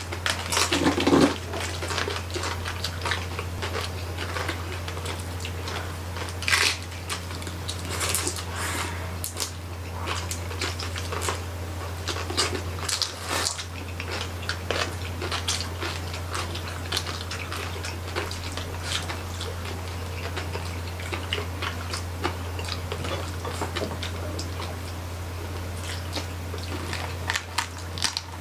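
Close-up chewing and crunching of crispy roasted pig skin (lechon) by several eaters: a dense, uneven stream of crackling bites and wet chewing. A low steady hum runs underneath.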